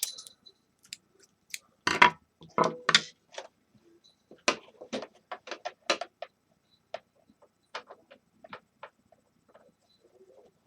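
Irregular clicks and light knocks of hand tools and parts being handled while a space heater is taken apart, with a louder cluster of knocks about two to three seconds in.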